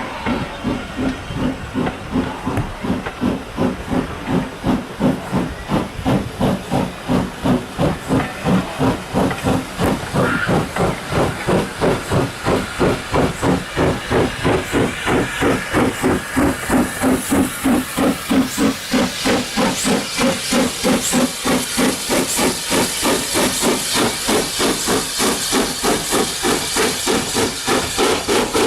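Bagnall 0-6-0ST saddle tank steam locomotive working a train, its exhaust beats coming steadily at about two to three a second with a hiss of steam that grows louder in the second half.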